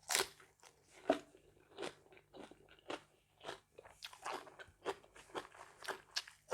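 Close-up chewing and crunching of a mouthful of food, with irregular crisp bites about twice a second, the loudest near the start and about a second in.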